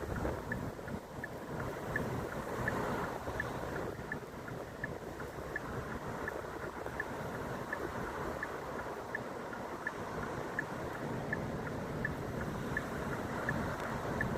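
Wind blowing in falling snow: a steady rushing noise that swells and eases a little. A faint small tick repeats evenly, about once every 0.7 seconds.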